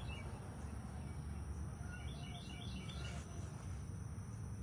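A small bird chirps a quick run of short, high notes about two seconds in, over a steady low background rumble.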